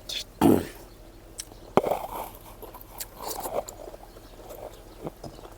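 Close-up eating sounds: chewing and wet mouth noises, with a louder noisy sound about half a second in and a few sharp clicks.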